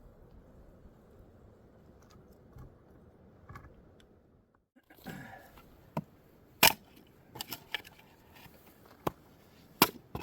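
Sharp wooden knocks of campfire kindling being chopped, about six strikes in the second half, one much louder than the rest. Before them only a faint hiss.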